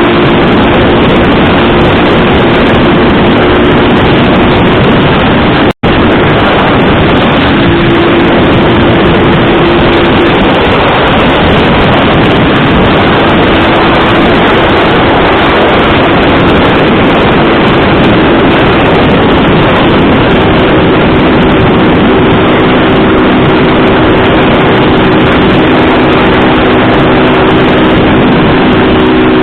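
Motorcycle engine running at a steady speed under loud, rushing wind noise while riding. There is a brief dropout about six seconds in.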